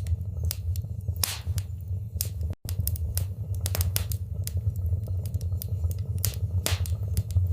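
Wood fire burning in a fireplace: irregular crackles and sharp pops over a steady low rumble of the flames. There is a brief dropout to near silence about two and a half seconds in.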